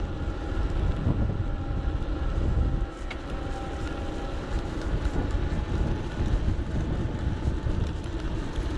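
Wind buffeting the GoPro's microphone, with tyre rumble, while an electric bike is ridden along a road. It makes a steady low rush that eases briefly about three seconds in, and a faint steady whine runs underneath.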